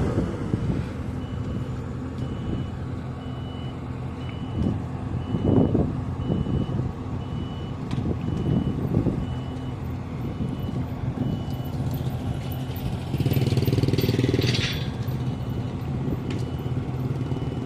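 Diesel engine of heavy construction machinery running steadily, with a backup alarm beeping at an even pace and a few knocks. About two-thirds of the way through comes a louder hissing burst lasting a second and a half.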